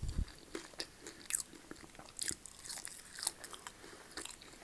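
A person chewing crunchy food close to the microphone, with irregular sharp crackling crunches. There is a brief low thud right at the start.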